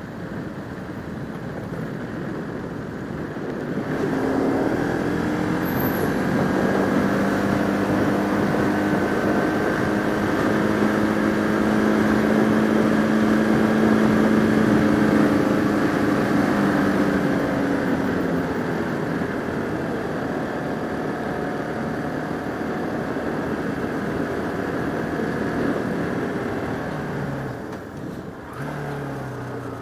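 Bajaj Pulsar RS200 motorcycle engine pulling under way. Its revs pick up about four seconds in, hold steady, then ease off, with a dip near the end. Wind rushes over the helmet microphone throughout.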